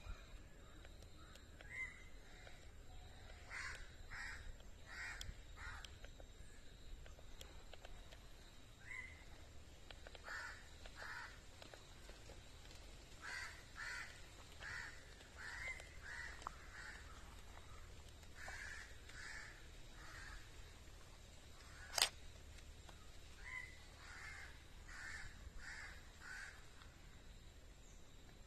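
A bird calling in repeated runs of several short calls, with pauses between the runs. A single sharp click about three-quarters of the way through.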